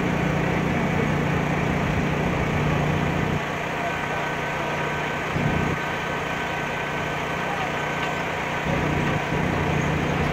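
Engine idling steadily with a low hum. The hum drops back about a third of the way in and comes up again near the end.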